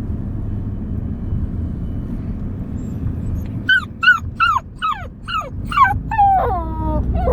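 Siberian husky vocalising: about three and a half seconds in, it lets out a quick run of about six short, sharply falling yips and whines, which draw out into longer falling howl notes near the end. A steady low rumble runs underneath.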